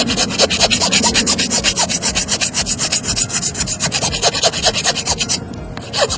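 A rasp filing a hoof in fast, even strokes. The scraping stops about five seconds in and starts again just before the end.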